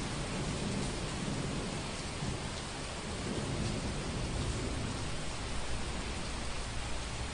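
Heavy rain falling in a steady hiss, with a low rumble of thunder underneath.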